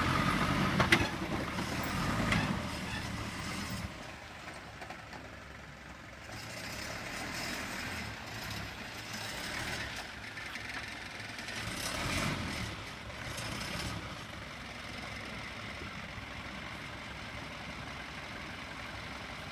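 A heavy vehicle's engine running, loud for the first few seconds, then settling to a quieter steady run with a brief rise about twelve seconds in. There is a sharp knock about a second in.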